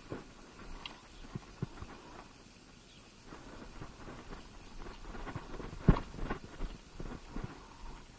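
Scattered light clicks and knocks at uneven intervals, with one much louder sharp crack about six seconds in.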